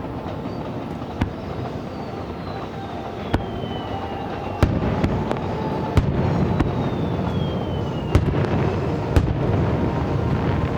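Aerial fireworks display: shells bursting with about six sharp bangs over a continuous rumble and crackle, with two long whistles falling slowly in pitch.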